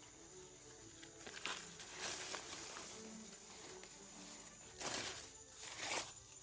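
Four short swishing rustles, one about a second and a half in, another at two seconds and two more near the end, over a steady thin high-pitched hum.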